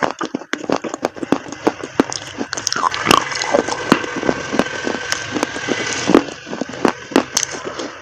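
Close-up crunching of damp chalk paste: a rapid, irregular run of sharp crackles and snaps over a soft squishy noise.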